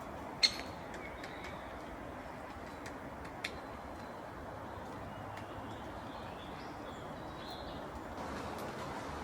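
Faint bird chirps over a steady outdoor background hiss, with a sharp tap and chirp about half a second in and a second sharp tap about three and a half seconds in.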